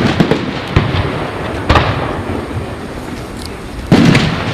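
Aerial fireworks shells bursting: a series of sharp bangs at irregular intervals, the loudest near the end, over continuous crackling.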